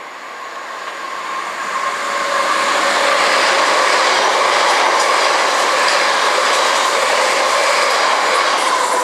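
London Midland Class 350 Desiro electric multiple unit passing at speed. The rush of wheels on rail grows over the first two or three seconds, then holds loud and steady as the carriages go by, with some clickety-clack.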